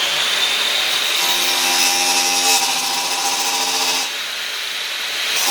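Angle grinder with a cutting disc running and cutting into the axe head's iron: a high motor whine with a hissing grind that comes in about a second in as the disc bites, easing off about four seconds in.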